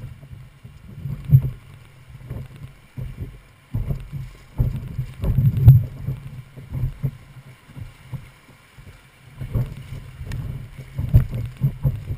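A small boat running a river rapid: irregular low rushes and thumps of water against the hull, loudest about five to six seconds in and again around eleven seconds.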